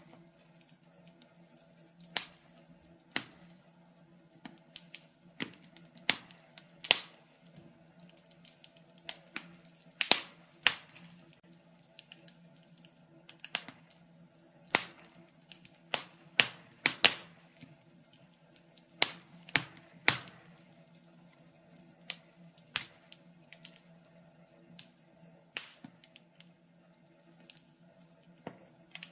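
Wood fire crackling in a fireplace: irregular sharp pops and snaps, now and then two or three close together, over a faint steady hum.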